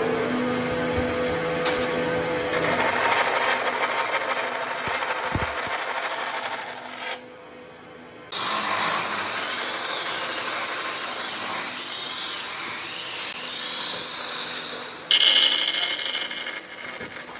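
A tool working a wood surface with a rough, rubbing noise, in separate stretches broken by abrupt cuts. The loudest stretch runs from about two to seven seconds in.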